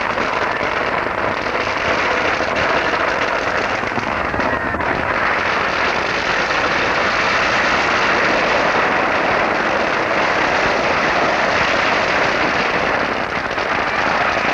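Fireworks going off in a dense, continuous crackle of rapid pops and hiss that barely lets up.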